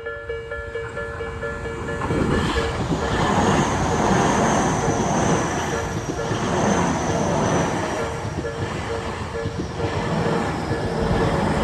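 A Tobu 50000 series electric train arrives about two seconds in and runs past over a level crossing. The rumble and wheel clatter swell and ease as each car goes by, with a faint high whine slowly falling in pitch. The crossing's electronic warning bell keeps ringing in a steady, even pulse.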